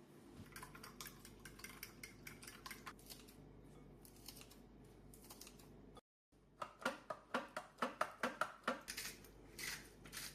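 Kitchen utensils clicking and clinking during food preparation. After a brief break about six seconds in, there is a quick rhythmic run of taps, about five a second, that thins out near the end.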